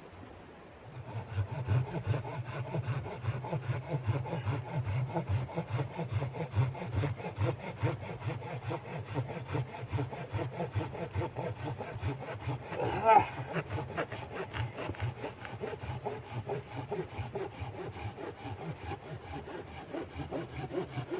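Hand saw cutting through wood with steady back-and-forth strokes, starting about a second in. A brief, louder pitched sound breaks in about two-thirds of the way through.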